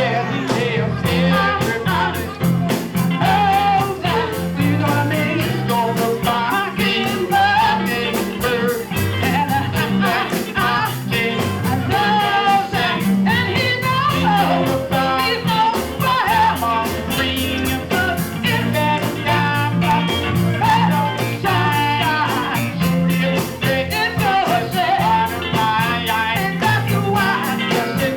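Live soul and R&B band with drums and guitar keeping a steady beat behind a singer.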